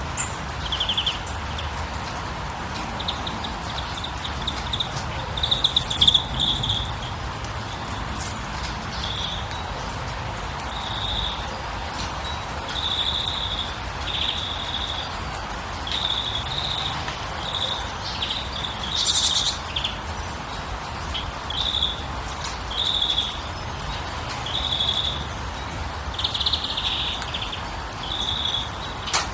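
Birds chirping: short calls repeated every second or two over a steady rushing background noise, with a few brief clicks.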